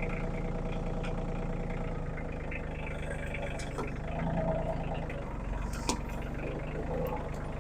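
An engine idling steadily, with a few faint clicks about four, six and seven seconds in.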